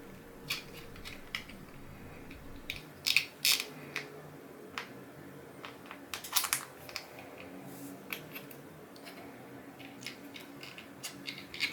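Irregular clicks and taps of 3D-printed PETG plastic stand parts being handled and fitted together, with a few louder clacks about three seconds in and again about six seconds in.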